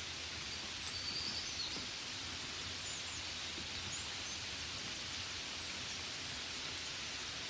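Steady hiss of gentle rain falling. A few short, high bird chirps come in during the first half.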